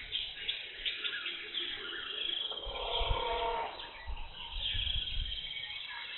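Tropical forest ambience: a dense, continuous chorus of birds chirping and calling, with a short, lower pitched call about three seconds in and a few low rumbles.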